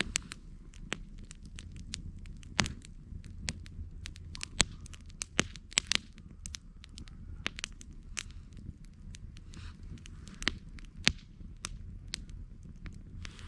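Wood campfire crackling, with irregular sharp pops (a few louder snaps scattered through) over a low steady rumble.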